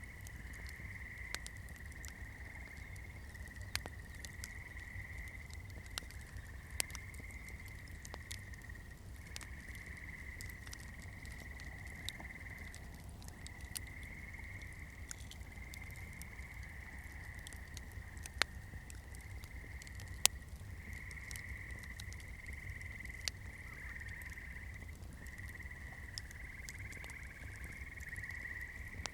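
Campfire burning, the wood crackling with scattered sharp pops, one loud snap about twenty seconds in. A steady high trill from a background chorus runs underneath, breaking off briefly several times, with a low rumble beneath it all.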